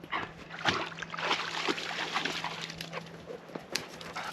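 Blue lacy dog making small whimpering noises amid sloshing, splashing water in irregular short bursts.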